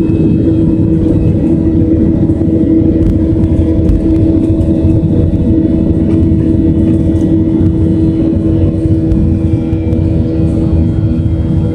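Jet engines of a Boeing 737-700, CFM56-7B turbofans, running: a loud, steady rumble with a constant hum that neither rises nor falls.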